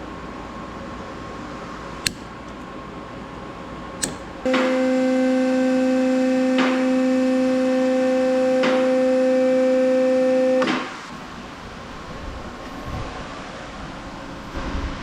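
A steady, even-pitched tone sounds for about six seconds, starting and stopping abruptly, with a few sharp clicks before and during it.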